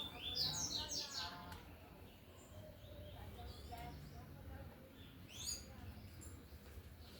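Double-collared seedeater (coleiro) singing its tui-tui song: rapid runs of quick, falling whistled notes in the first second and a half, then again about five and a half seconds in.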